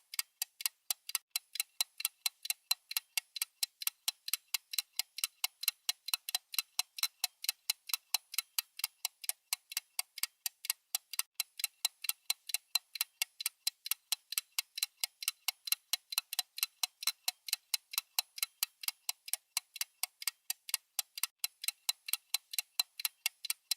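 Clock-style ticking sound effect of a countdown timer: rapid, even ticks, several a second, running on steadily.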